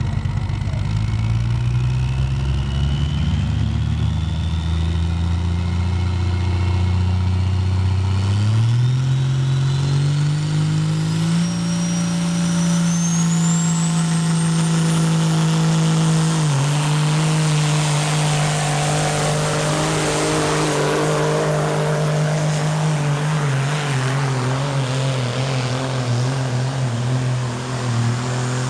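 Pro stock semi truck's diesel engine at full throttle pulling the sled, with a high whistle rising steadily in pitch. The revs climb about eight seconds in, hold high with a brief dip near the middle, then the engine shuts down abruptly just before the end.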